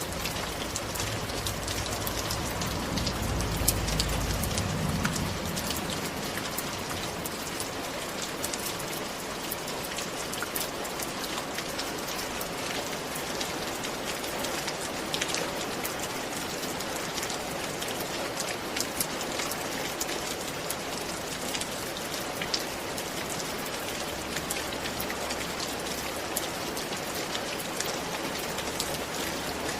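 Steady rain falling, an even patter of many drops with sharper individual drop ticks throughout. A soft low rumble swells and fades in the first few seconds.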